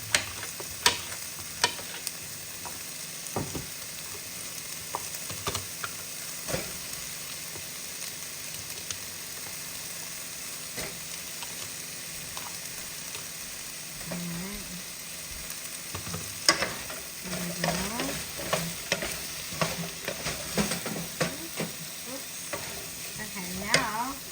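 Beef and vegetables frying in butter in a pot on high heat, with a steady sizzle, while being stirred; a utensil clicks and scrapes against the pot now and then, more often in the last third.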